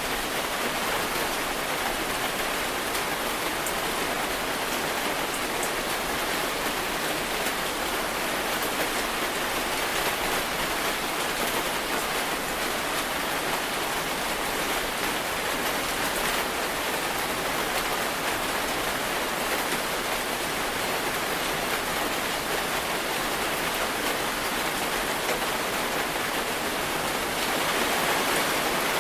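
Steady rain falling, an even hiss of many drops on a surface, a little louder near the end.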